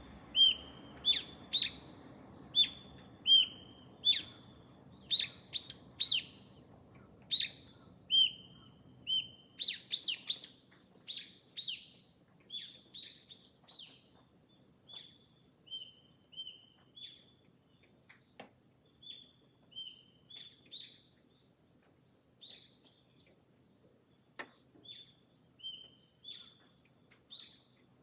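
A garden bird calling over and over in short, sharp chirps, each one a high note dropping quickly, about one a second. From about ten seconds in the calls come quicker for a moment, then grow fainter and sparser. A low rumble sits under the first nine seconds.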